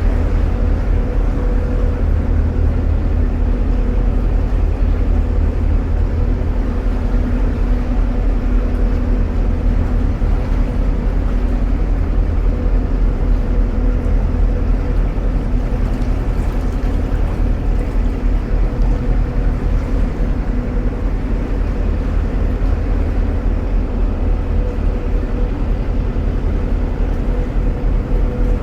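Narrowboat diesel engine running steadily at cruising pace inside a canal tunnel: an even low rumble with a steady hum over it.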